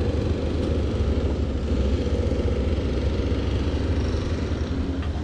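A steady low rumble, strongest in the bass, like a small engine running.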